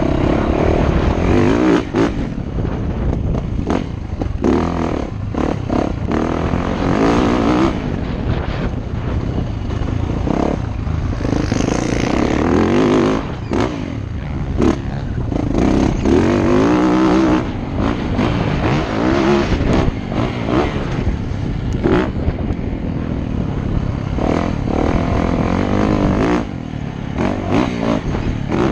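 Motocross dirt bike engine being ridden hard, revving up and dropping back again and again as it works through throttle and gears, with scattered sharp knocks and clatter.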